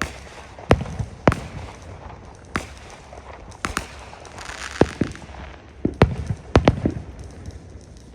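Aerial fireworks display: a string of about a dozen irregular bangs from bursting shells and launches, several in quick succession, with a burst of crackle about halfway through.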